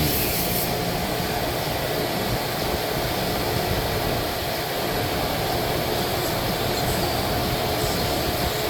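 Steady mechanical noise, an even rush with a constant mid-pitched hum and no separate knocks or events.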